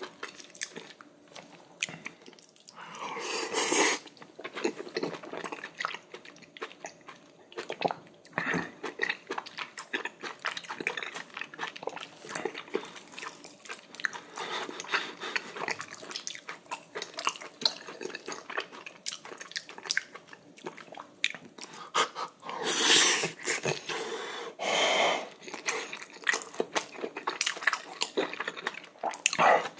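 Close-miked eating sounds: chewing, wet mouth clicks and lip smacks as braised kimchi and whole beef large intestine are eaten. A few louder, longer noisy sounds come a few seconds in and again about three-quarters of the way through.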